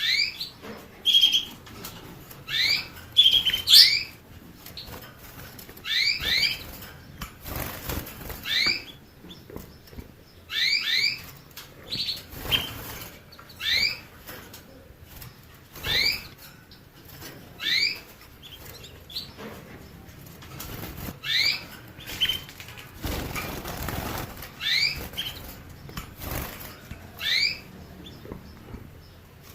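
A small finch calling: short upward-sweeping chirps, often in quick pairs, repeated every second or two. Two longer rustling bursts come in between, about a quarter of the way in and again past the middle.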